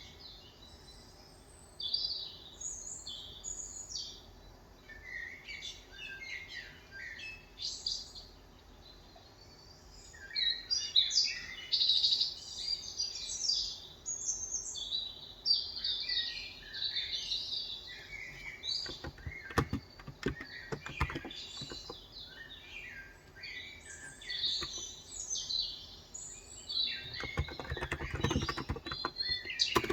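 Small birds chirping and twittering on and off throughout. A short burst of keystrokes on a Cox Endeavor electrostatic-capacitive keyboard comes about two-thirds of the way in, and typing resumes more densely near the end.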